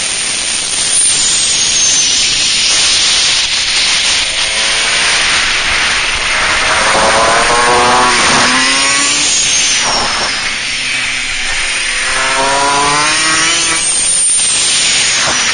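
125 cc supermoto motorcycle engine revving under acceleration, its pitch climbing from about four seconds in and again from about eleven seconds in, with a break between. A heavy rush of wind on the onboard microphone runs underneath and is loudest in the first few seconds.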